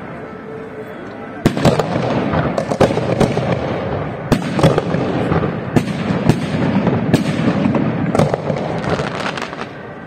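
Fireworks charges going off at the launch site on the ground instead of in the air: sharp bangs at irregular intervals, roughly one every second, over continuous crackling, starting about a second and a half in. This is a malfunctioning display exploding at ground level.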